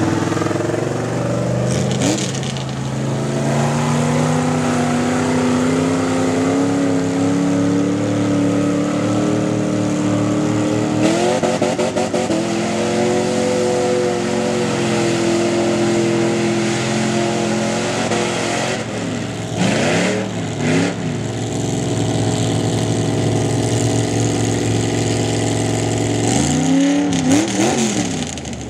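Mud truck's V8-type engine running, its revs climbing slowly for several seconds, then stepping up and holding high. Near the end it is blipped down and back up a few times in quick rev swings.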